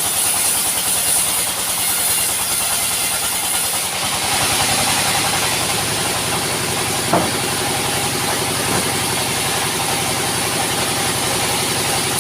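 Sawmill machinery running: an engine's steady beat under a broad hissing noise that grows a little fuller about four seconds in, with one sharp knock a little past halfway.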